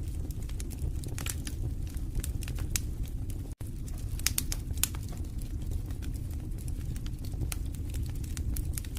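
Wood fire in a fireplace crackling: irregular sharp pops and snaps over a steady low rumble of the flames. The sound cuts out for a split second about three and a half seconds in.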